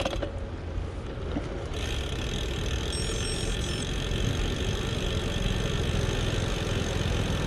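Wind and road noise of a gravel bike being ridden, a steady rushing with a low rumble that builds slightly, a higher hiss joining about two seconds in. A few faint high chirps sound briefly about three seconds in.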